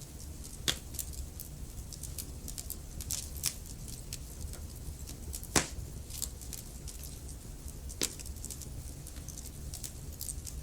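Wood fire crackling in a fireplace: a steady low rumble of the flames with irregular sharp crackles and snaps, and three louder pops, the loudest about halfway through.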